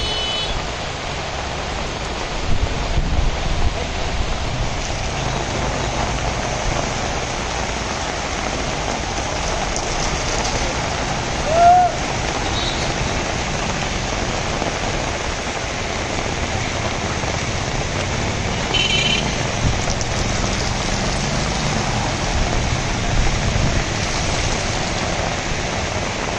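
Heavy rain pouring onto a street and wet road, a steady dense hiss. About halfway through, a short rising-then-falling tone is briefly the loudest sound.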